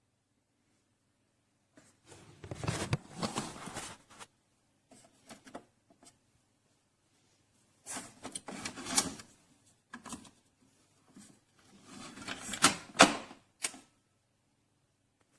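Three short spells of clicking and rattling, like hard objects being handled, the last ending in a couple of sharp clicks.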